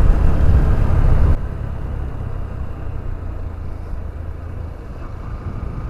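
Motorcycle underway, engine and road noise mixed with heavy low wind buffeting on the microphone, which drops off sharply about a second and a half in, leaving a steadier, quieter running sound.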